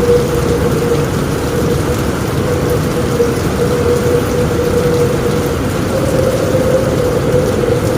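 Steady rain pouring on a roof, with a low continuous rumble underneath and a faint steady tone.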